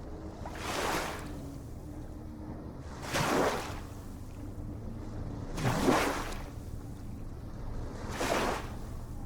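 Ocean waves washing in, four surges of surf about every two and a half seconds over a steady low rumble of the sea.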